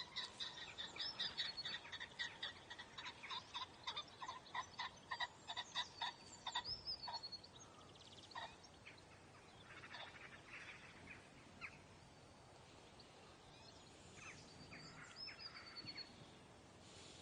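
Birds calling: a fast run of short, repeated calls, about three or four a second, for the first seven seconds or so, then fainter scattered calls and a few thin whistles.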